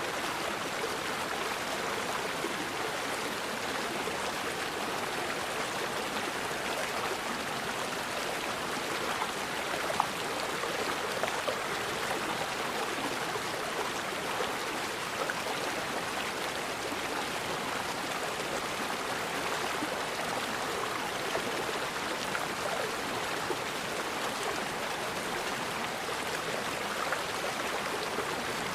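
River water flowing steadily over rocks, an even rushing and babbling, with a brief sharp plink or splash about ten seconds in.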